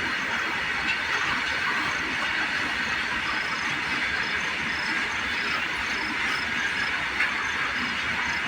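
A train running past on the rails: a steady rush of wheel and track noise, with faint short high squeals repeating through the middle.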